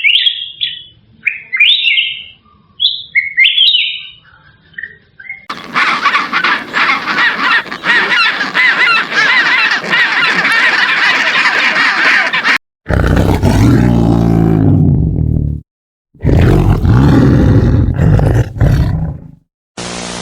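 Birds chirping: a few separate high chirps, then a dense chorus of many birds chirping for about seven seconds. After that come two low, loud animal calls, each about three seconds long.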